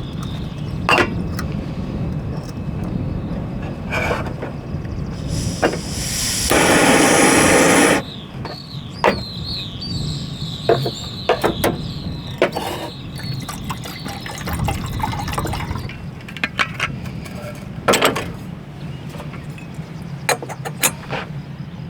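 Liquid being poured, with a loud rushing pour lasting about two seconds some six seconds in, amid scattered light clicks and knocks.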